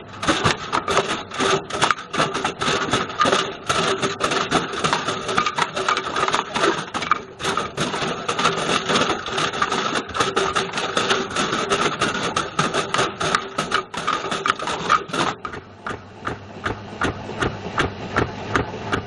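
Bush VCR807 video recorder tumbling in a Beko washing machine drum, its case rattling and knocking constantly over the drum motor's steady hum. About fifteen seconds in the clatter drops and the knocks become quieter and more evenly spaced.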